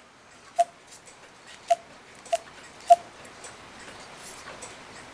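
Clock ticking: a handful of sharp ticks at uneven spacing, each with a short ringing note.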